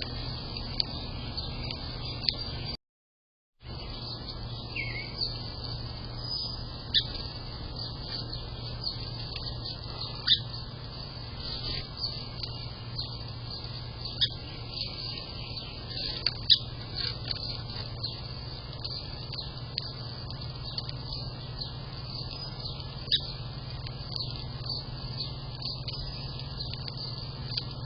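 Wild birds giving scattered short chirps and calls over a steady low hum. The sound drops out completely for under a second about three seconds in.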